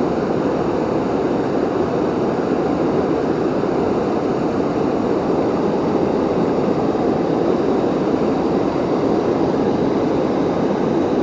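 Rushing water of a waterfall, a steady even noise that doesn't change.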